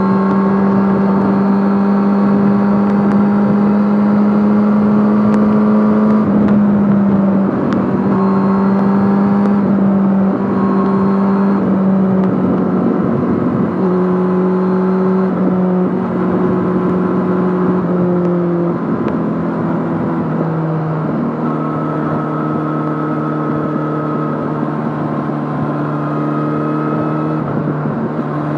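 Yamaha Fazer 600's inline-four engine running through a handmade exhaust while being ridden: a steady low note that shifts in pitch in several small steps and ends lower than it began.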